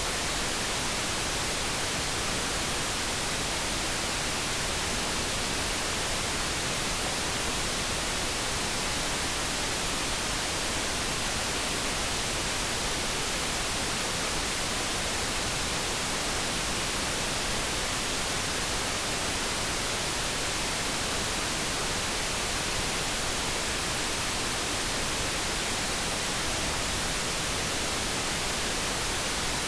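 Steady generated noise, an even hiss that does not change, with no tones or events in it.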